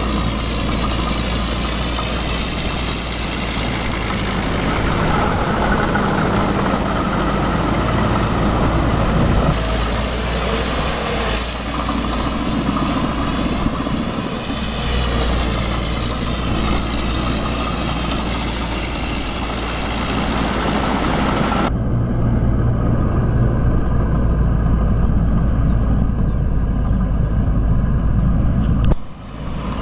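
Tractor engine running steadily under load, with a high whine that dips in pitch and rises back in the middle. The sound changes abruptly about two-thirds of the way through and again near the end.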